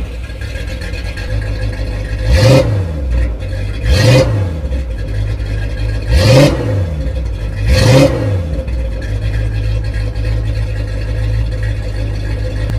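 Engine idling, blipped four times in brief revs that rise and fall, about every two seconds; it then idles steadily.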